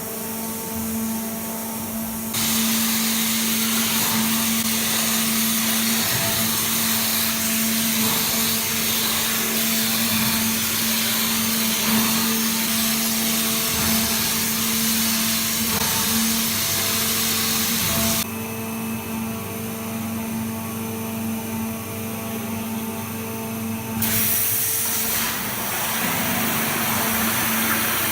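Abrasive waterjet cutting machine running: a loud, steady hiss of the high-pressure jet over a constant low hum. The hiss starts about two seconds in, drops away for several seconds about two-thirds of the way through, then comes back.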